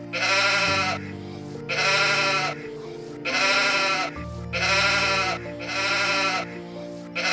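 Repeated bleating: five quavering bleats, each under a second long and evenly spaced about a second and a half apart, over background music with steady held notes.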